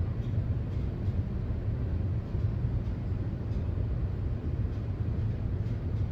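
Hitachi EH4000 rigid mining dump truck running, a steady low rumble.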